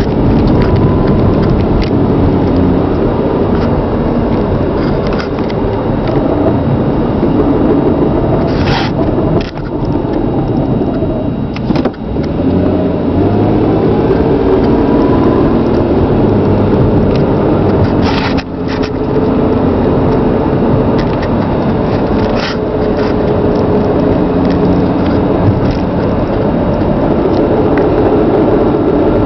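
Chrysler Sebring with a 2.7 L V6 driving, with steady engine and road noise. A few sharp clicks come through, and around the middle the engine pitch falls and then rises again.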